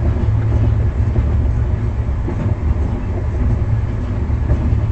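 Steady low rumble of a moving passenger train, heard from inside an air-conditioned coach.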